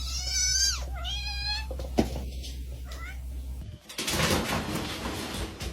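A cat meowing twice, two drawn-out meows that fall in pitch, followed by a single knock and a short faint call. About four seconds in, it gives way to an even hiss-like noise.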